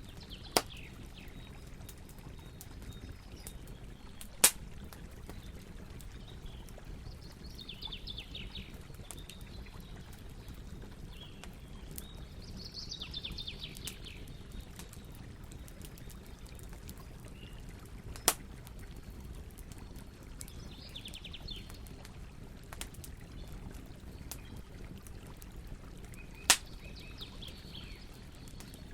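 Campfire burning with a low steady rush, faint scattered crackles and four sharp pops of burning wood. A bird sings short trills four times.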